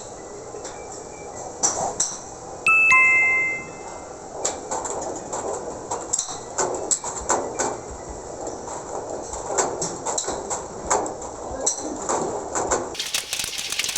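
Public-address chime at a golf driving range, two descending notes about three seconds in, the loudest sound here. Scattered sharp clicks of golf shots being struck come at irregular intervals throughout.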